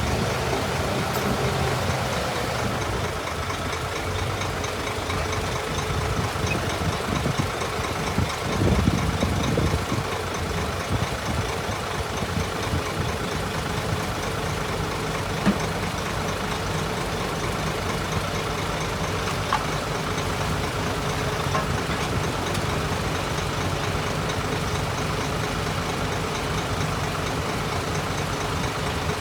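Diesel engine of heavy earthmoving machinery running steadily, with a brief louder surge about nine seconds in and a single sharp knock about halfway through.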